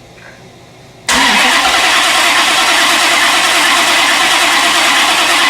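The Grand Prix's LS V8 cranking on its starter without catching. It starts suddenly about a second in and holds a steady, fast rhythm, a no-start that sounds to the crew like the timing is out.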